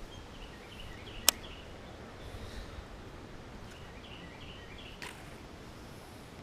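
A bird chirping in two short runs of quick notes, over a low rumble of wind on the microphone. A single sharp click about a second in is the loudest sound, with a softer knock near the end.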